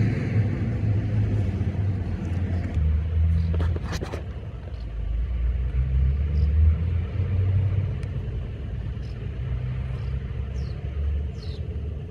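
A low, uneven rumble, with a few faint, short high chirps falling in pitch near the end.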